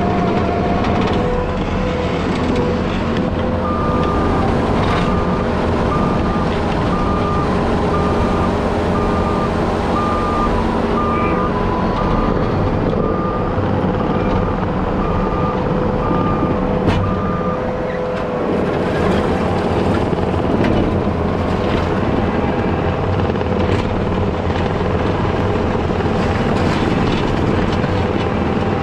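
Diesel heavy equipment running steadily under load. For about thirteen seconds in the first half, its backup alarm beeps about once a second as the machine reverses, then stops.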